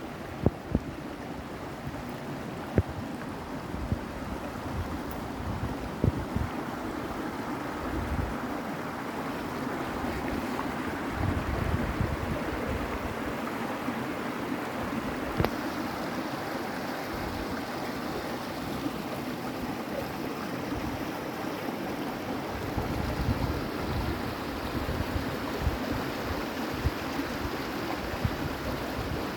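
Running water: a steady rushing, with a few sharp ticks in the first few seconds.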